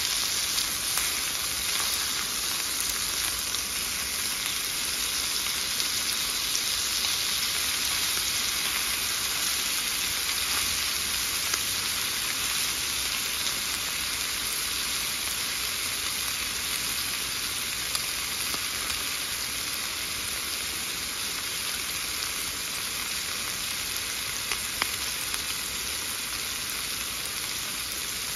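Food frying in a pan: a steady sizzle with small crackles and an occasional pop.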